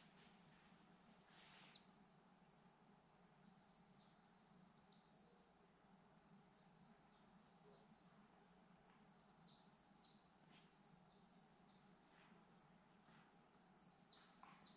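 Faint woodland birdsong: short, high chirping notes that come in scattered clusters every few seconds.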